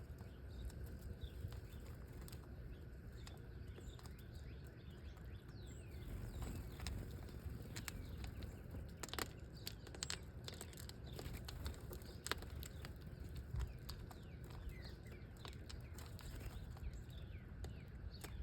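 Small birds chirping faintly with wing flutters, and a handful of sharp taps or clicks scattered through, over a steady low rumble.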